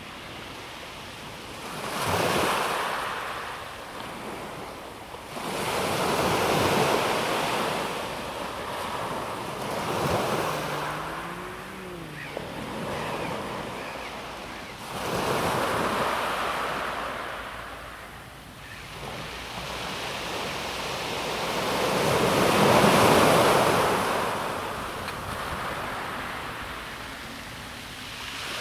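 Calm sea waves breaking and washing back over a pebble beach, in five surges a few seconds apart, the biggest near the end. A faint wavering tone rises and falls briefly about ten seconds in.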